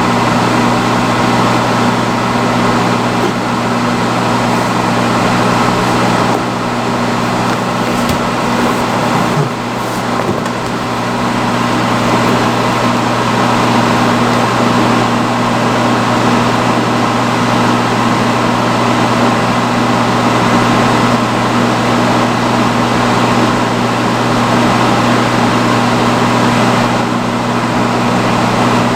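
Vintage salon chair hood hair dryer running on its highest setting: a steady fan rush with a constant low hum.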